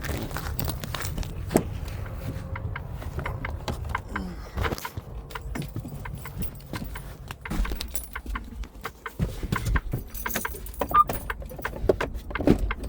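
Irregular light clicks, clinks and rattles, as of small hard objects being handled, over a low steady rumble.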